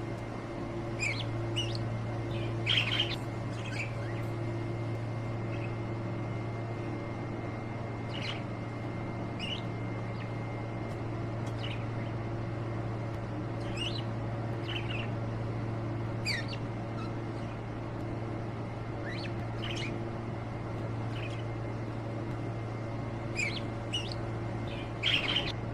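Small pet parrots giving scattered short, high chirps every second or so, with louder bursts of calls about three seconds in and near the end. A steady low hum runs underneath.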